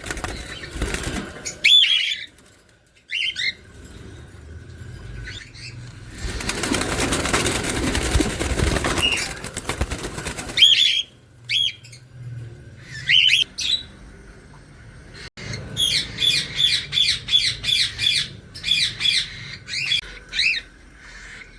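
Caged parrots giving short, sharp calls, with a rapid series of them near the end. A few seconds of wing flapping run through the middle.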